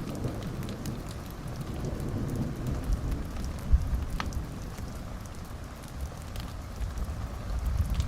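Wood fire in a fireplace crackling: scattered sharp pops and snaps over a low, steady rumble, with a louder thump a little under four seconds in.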